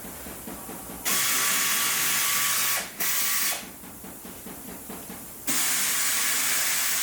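Compressed air hissing in three bursts: a long one of nearly two seconds, a short half-second one, then another long one, with faint clattering between them.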